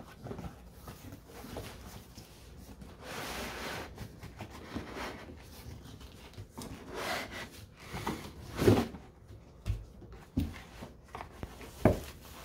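Cardboard packaging rubbing and rustling as a boxed single-serve coffee maker is unpacked. Several knocks and thumps fall in the second half, the loudest about two-thirds of the way in and another near the end.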